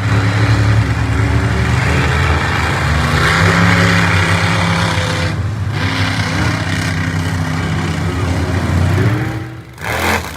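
Monster truck engine running hard at high revs, with some rises and falls in pitch. Near the end it drops off sharply, followed by two brief loud bursts.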